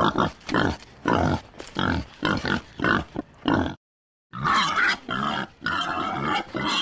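An animal grunting in short, repeated bursts, about two or three a second, broken by a brief silent gap just past halfway.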